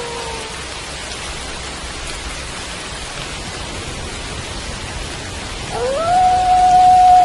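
Steady rain, with a wolf howl trailing off and falling in pitch in the first half second. Near the end a new howl rises quickly and then holds one steady pitch.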